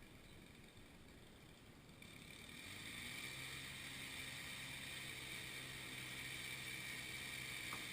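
A motor-driven machine spins up about two seconds in, rising in pitch, then runs steadily at a constant pitch.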